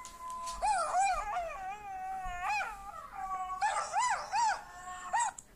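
Dogs howling: a run of wavering high howls that rise and fall in pitch, at times two voices at once, ending in a few short arched howls that stop abruptly near the end.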